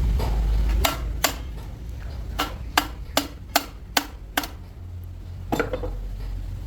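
A series of sharp metallic taps, like hammer blows on steel parts: two about a second in, then six at an even pace of about two and a half a second, and one more near the end, over a steady low hum.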